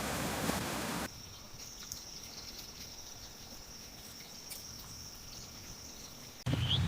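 Steady rushing noise of water that cuts off about a second in, giving way to a quieter scene with a steady high-pitched insect drone and a few faint clicks.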